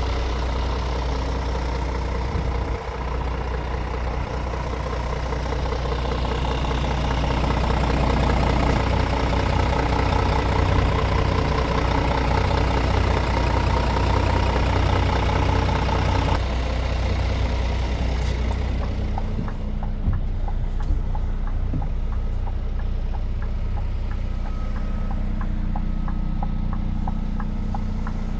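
Scania R410 truck's six-cylinder diesel engine idling steadily. About two-thirds of the way through the sound changes abruptly: the deep rumble falls away and a lighter, ticking engine sound is left.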